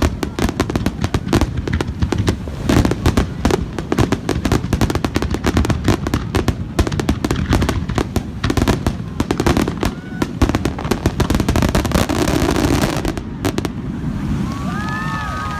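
Fireworks display: a dense barrage of bangs and crackling, many reports a second, that stops about thirteen seconds in. Near the end several whistling tones rise and fall.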